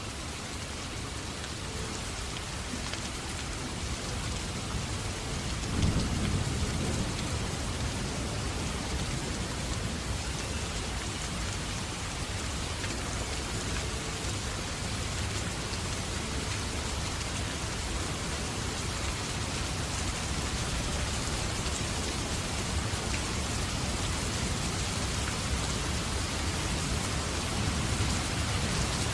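Steady rain, with a low rumble of thunder that swells suddenly about six seconds in and rolls on for a few seconds; more low rumbling builds near the end.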